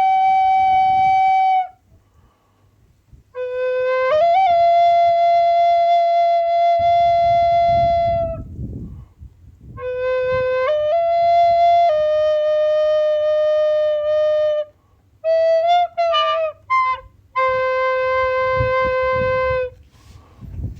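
Solo flute playing a slow melody of long held notes, sliding up into some of them, in phrases separated by short pauses, with a quick ornamented flurry about two-thirds of the way through.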